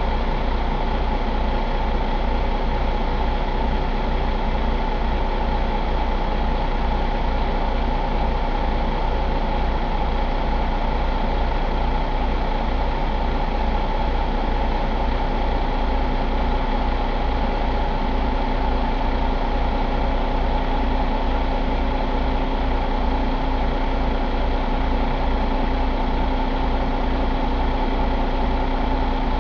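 Cummins X15 inline-six diesel engine idling steadily, with an even low pulsing and no change in speed.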